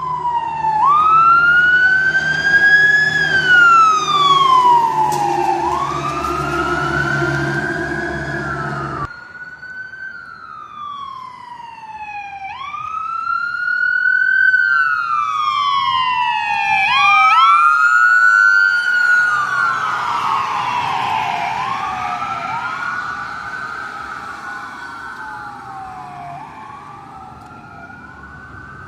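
Emergency vehicle sirens wailing, each rising and falling every few seconds, as the units go by one after another, with a heavy truck engine rumbling under the first siren. The sound swells twice, two sirens overlap out of step just past the middle, and it fades away near the end.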